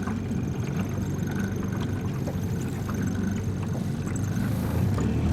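Small boat's motor running at low speed under way, a steady low rumble that grows slightly louder near the end.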